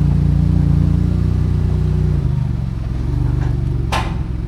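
Car engine running with a steady low note that drops in pitch and level about two seconds in. A sharp crack comes near the end.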